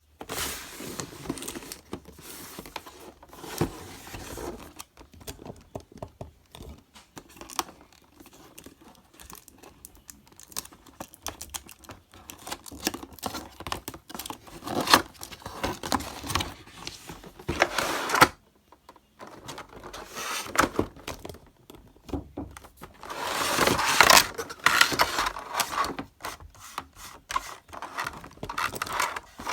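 Handling noises: packaging rustling, crinkling and tearing, mixed with irregular clicks and knocks, with a longer stretch of rustling near the end.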